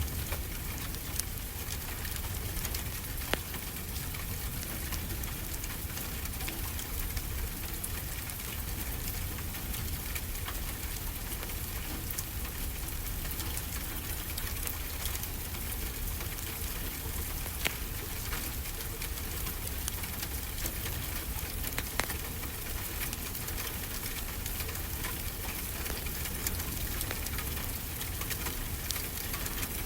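Wood fire crackling, with sharp pops every few seconds, over a steady wash of ocean surf with a low rumble.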